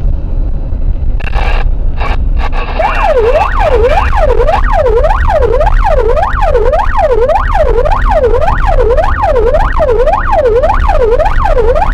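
Emergency vehicle siren in fast yelp mode, its wail sweeping up and down about one and a half times a second, starting about three seconds in. It sounds over a steady low rumble of engine and road noise, with a few brief noises just before it.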